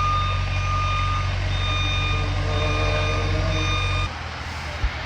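A work machine's reversing alarm beeping repeatedly over its engine running low, with the engine noise cutting off about four seconds in.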